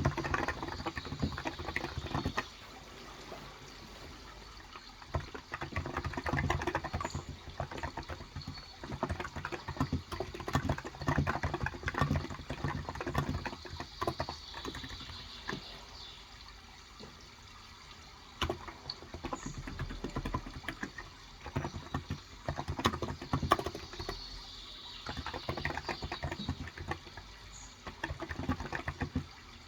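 Typing in bursts of a few seconds on a Cox Endeavor electro-capacitive tenkeyless keyboard with 35 g switches: soft rapid key clicks with pauses between. Steady running water and a few short bird chirps continue underneath.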